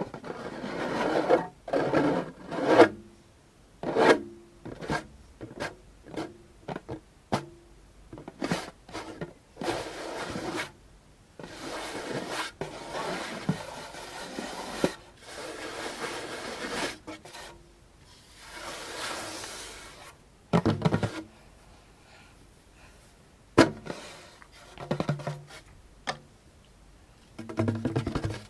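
Scratching and rubbing on a djembe, broken up by short taps on the drum. Near the end there are a few deeper hits.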